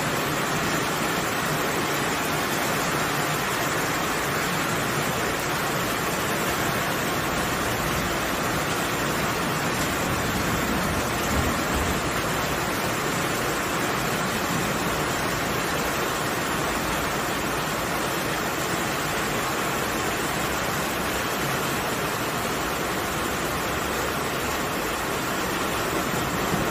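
Heavy rain falling steadily: a constant, even hiss with no breaks.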